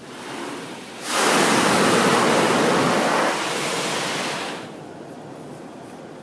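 Touchless car wash gantry blasting the car, heard from inside the cabin: a loud rush starts suddenly about a second in, eases a little past the middle, and dies away about a second later over a fainter steady hiss.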